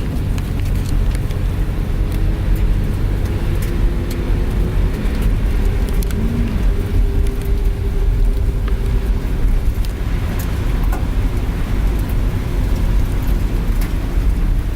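Steady engine and road rumble of a moving van, heard from inside the cabin.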